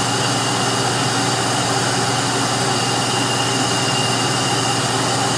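Steady rush of compressed air blowing through a prototype single-valve cylinder head's angled intake passages into a test cylinder, with a steady low hum underneath.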